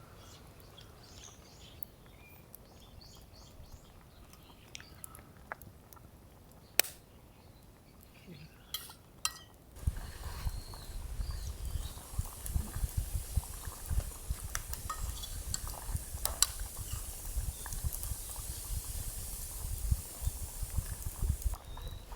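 Metal cooking utensils clinking now and then against a pot, then from about halfway through a steady sizzling with small crackles.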